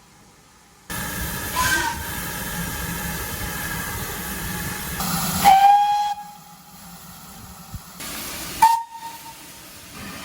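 Steam locomotive whistle sounding over a loud hiss of escaping steam. There is a short toot early, then the loudest blast about five seconds in, its pitch sweeping up into a steady tone. Another short toot comes near the end.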